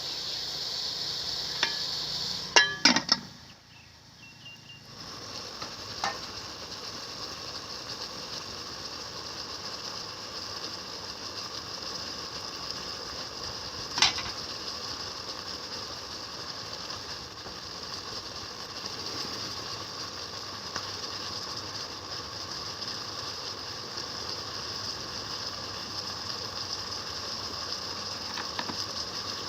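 Chicken and ginger sizzling steadily in a hot pan as they fry. A few sharp knocks come about three seconds in and one more about halfway through, and the sizzle briefly drops away just after the first knocks.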